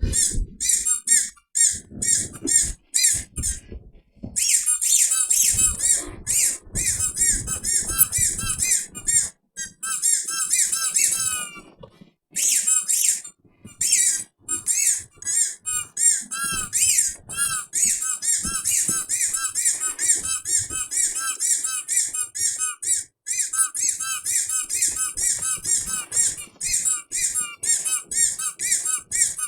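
Rapid high-pitched squeaks, several a second, in runs broken by short pauses.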